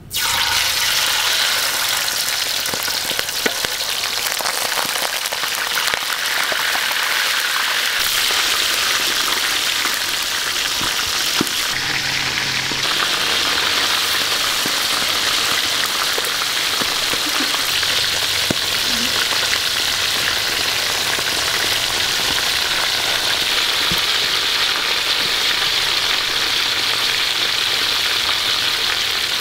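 Mantis shrimp deep-frying in hot oil in a metal wok: a steady sizzle that starts suddenly as the first shrimp goes into the oil. A few light clicks are heard over it.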